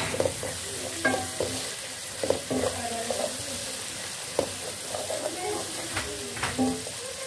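Onion, tomato and spice masala sizzling in oil in a metal pan while a wooden spoon stirs and scrapes through it, with scattered knocks of the spoon against the pan.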